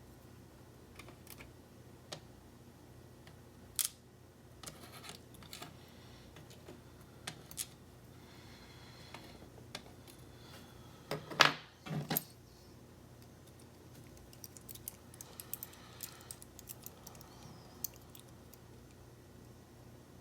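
Small metal lock parts and tools clicking and clinking as a challenge lock is taken apart and its pins and springs are handled. The sound is scattered sharp clicks, with a louder pair of knocks a little past halfway and a run of small light ticks near the end.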